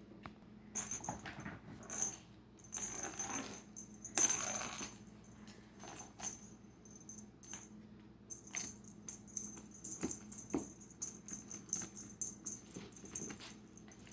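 Kittens and a small dog moving about and playing: scattered light clicks, taps and rustles, with a longer scuffle about four seconds in.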